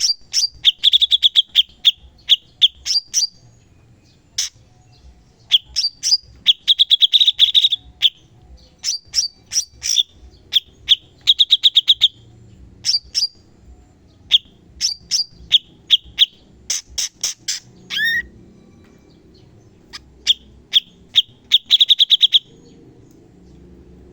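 Cucak cungkok singing in quick bursts of sharp, rapid-fire notes and short fast trills, with brief pauses between the phrases and one sliding call near the end of the last burst.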